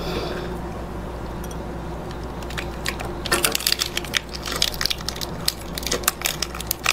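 Close-miked crunching and cracking as shell-on seafood is bitten and chewed: dense, irregular crackles that start about three seconds in, over a low steady hum.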